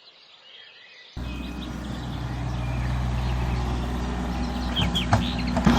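Birds chirping, then about a second in a machine engine starts up abruptly and keeps running steadily, with a few short knocks near the end.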